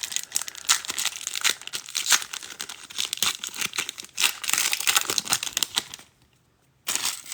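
A trading-card pack's wrapper being torn open and crinkled, a dense crackling for about six seconds, then a short burst of crinkling near the end.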